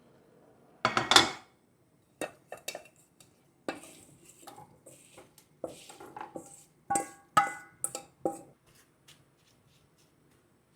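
Dishes and metal utensils clattering and clinking: a loud clatter about a second in, then a run of lighter knocks and clinks, a few of them ringing briefly, dying away after about eight seconds.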